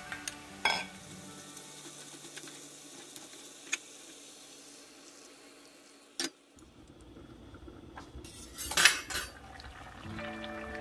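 Kimchi stew sizzling in a Le Creuset enamelled cast-iron pot while a spatula stirs it, with several sharp knocks of the spatula against the pot. The loudest clatter comes near the end.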